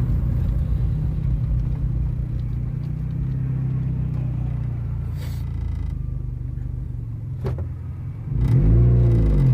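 Honda Civic CX four-cylinder engine running through a rusted-out, leaking exhaust with no muffler, a steady low drone while driving. Two brief knocks come near the middle, and near the end it grows louder as the engine pulls harder.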